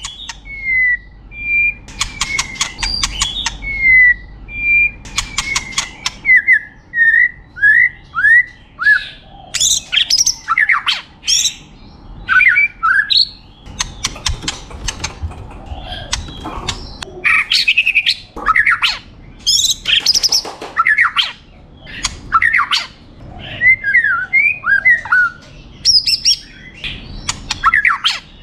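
White-rumped shama singing a loud, varied song. It opens with a run of clear whistled notes over fast rattling trills, then goes on in quick changing phrases of whistles, sharp chips and harsh chatter, with short pauses between them.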